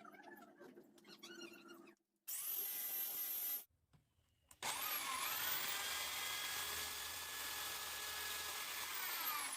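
A small handheld power tool working bamboo. It runs briefly about two seconds in, then again from about four and a half seconds, with a motor whine that rises as it spins up and falls as it winds down near the end. Before it come faint handling sounds.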